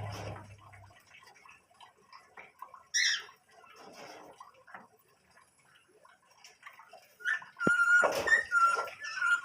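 Small pet birds calling: a brief high chirp about three seconds in, then a run of pitched calls near the end, with faint scattered clicks between.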